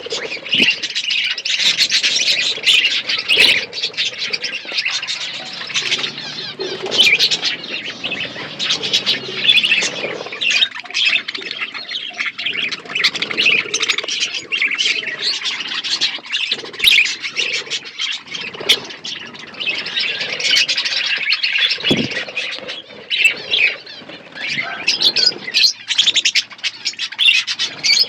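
Budgerigars chattering and chirping continuously, a dense run of overlapping high warbles, squawks and clicks from several birds.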